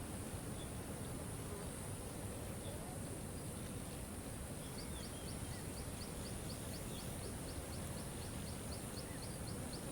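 Waterfall rushing steadily under a high, even insect buzz, with faint single bird chirps now and then. About halfway through, a rapid series of high chirps starts, about three a second.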